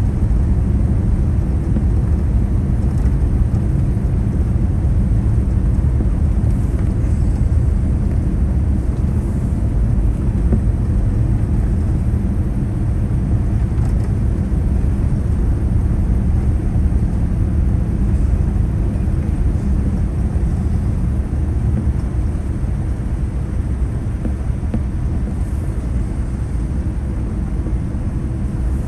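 Steady low rumble of airflow and engine noise heard inside the cabin of a Boeing 787-9 airliner in flight or on the runway, easing off slightly near the end.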